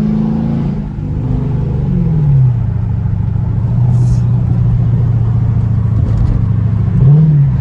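Straight-piped Dodge Charger R/T's 5.7 L HEMI V8 held at high revs in a pull, then the throttle lifts about a second in and the exhaust note falls away to a steady low cruising drone. Near the end a brief blip of throttle rises and drops back.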